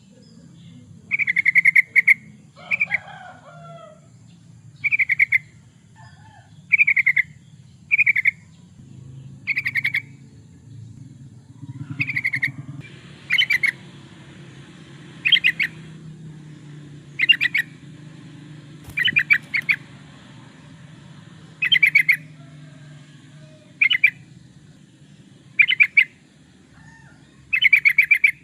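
Yellow-vented bulbul (trucukan) singing short, bubbling phrases of quick notes, repeated every one to two seconds over a steady low hum. A lower, sliding call from another bird comes in about two to three seconds in.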